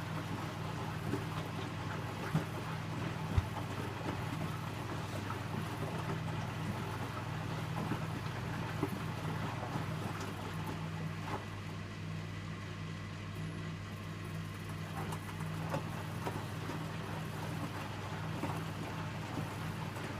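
Electrolux W455H commercial washing machine running mid-cycle with a steady low hum, and a couple of short clicks in the first few seconds.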